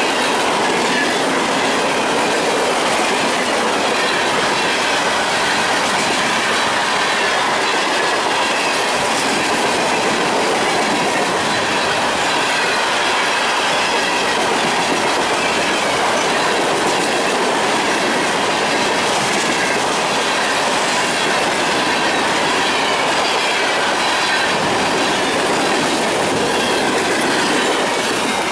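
Steel-wheeled ballast hopper cars of a freight train rolling past close by: a loud, steady din of wheels on rail, with faint thin squealing tones riding over it.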